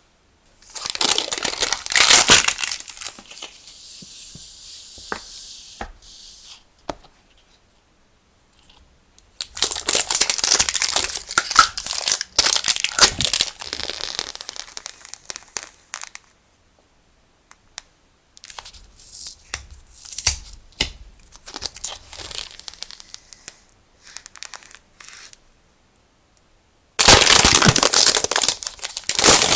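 Packaging and paper being handled: crinkling and tearing in four bouts, with dead silences between them.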